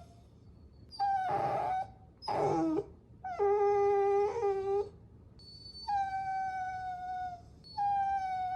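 Puppy whining: a series of five high, drawn-out whines with short gaps between them, several sliding down in pitch.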